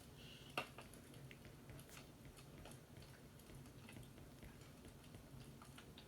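Faint fireplace crackling: scattered small pops and ticks over a low steady rumble, with one sharper pop about half a second in.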